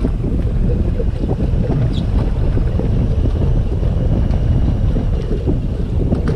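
Steady wind buffeting the microphone on a small boat at sea, with the rush of water beneath it.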